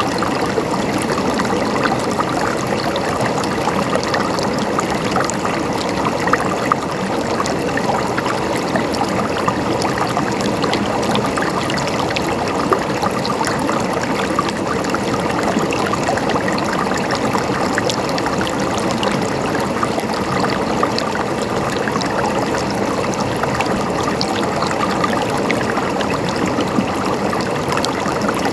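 Water flowing and gurgling steadily in a stream, with a continuous splashing rush and many small drips and splashes.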